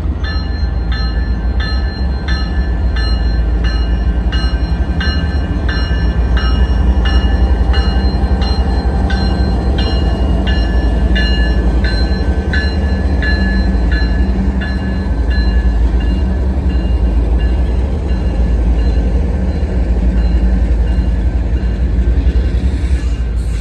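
Freight train led by two GE diesel locomotives pulling out, a steady low diesel rumble throughout. Over it a bell rings about one and a half strokes a second, fading out about two-thirds of the way through, and a short hiss comes near the end.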